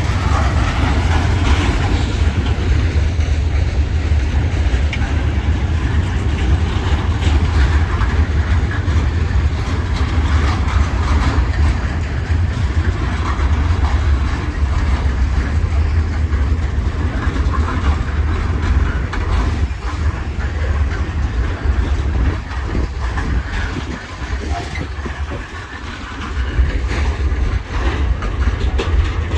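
Electric train running through a station: a steady, heavy low rumble with rail noise on top, easing briefly about 25 seconds in before picking up again.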